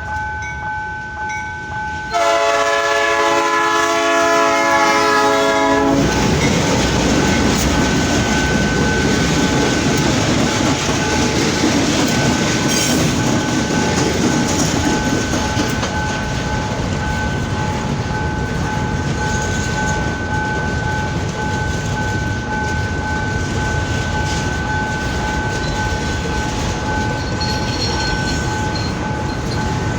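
Freight locomotive's air horn sounds one long blast for the level crossing, then the train rolls past close by with steady wheel-on-rail rumble and clatter, a thin steady high-pitched tone running under it.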